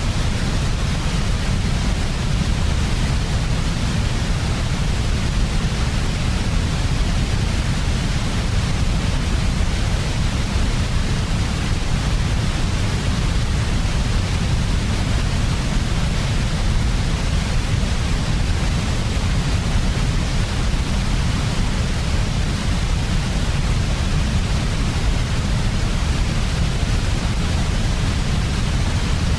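Steady, unchanging sleep-aid noise: a deep, even rumble with a softer hiss above it, with no rhythm or events.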